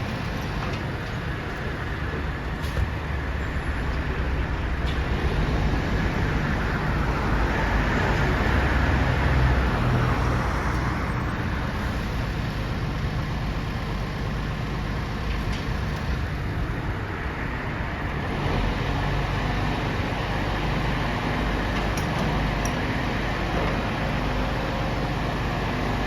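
Truck engine running steadily, growing louder for a few seconds about a third of the way in, then settling back.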